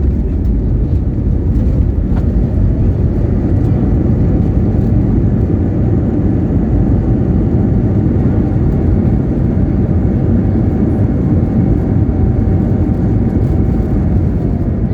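Airbus A321neo landing, heard inside the cabin: a loud, steady rumble of engines, airflow and runway, with a faint steady whine that fades near the end.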